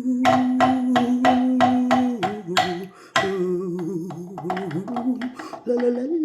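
A woman singing without words, holding one long note, then moving into a wavering, humming melody about two seconds in, over a steady beat of sharp taps about three a second.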